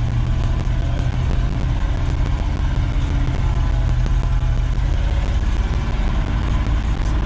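1973 Ford F-250's 360 V8 engine running steadily as the truck drives in four-wheel drive, a deep, even rumble.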